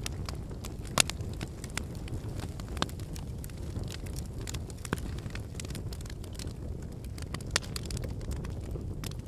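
Wood fire burning: a steady low rush of flame with scattered crackles and pops from the burning firewood. The sharpest pop comes about a second in, and another loud one comes about three-quarters of the way through.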